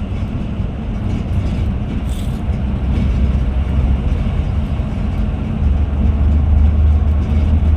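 Scania Metrolink multi-axle coach running on the road, heard from inside the cabin: a steady low engine and road rumble that grows heavier about two-thirds of the way through.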